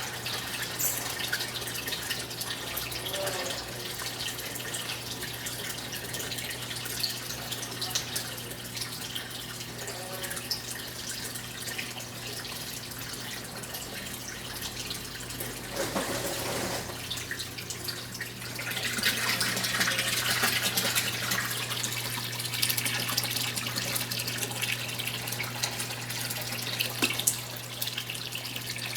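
Brastemp 9 kg top-loading washing machine filling with water: a steady stream pouring into the tub over a low hum, the pouring growing louder about two-thirds of the way through.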